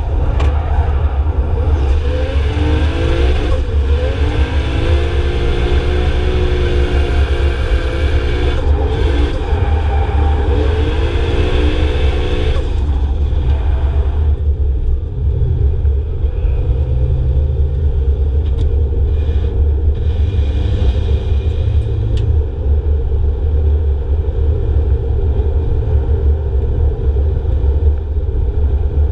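Drift car engines revving up and down for about the first twelve seconds, then fading away. A steady low rumble continues underneath throughout.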